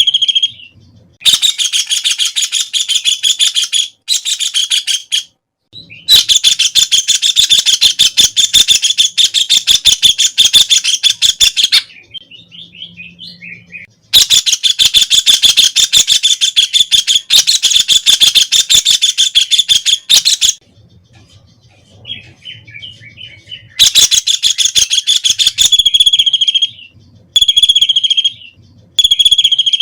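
White-throated kingfisher calling: long, loud, rapid rattling trills of several seconds each, separated by short pauses, with a few short whistled notes near the end.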